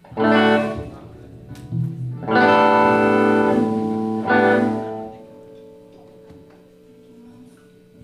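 Guitar music played live: a short loud chord at the start, then a longer loud passage from about two seconds in, ending near five seconds and dying away to quieter sustained notes.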